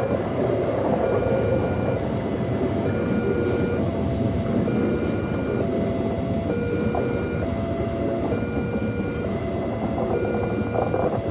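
A train passing over a railroad crossing with a steady rumble of wheels on rail. Over it, a two-note electronic warning tone alternates between a lower and a higher pitch about once a second, typical of a crossing's warning signal.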